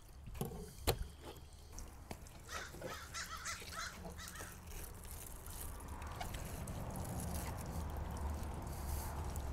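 A bird calling several times in quick succession about three seconds in, with a single sharp knock shortly before. From about six seconds on, a steady rush of running water builds up.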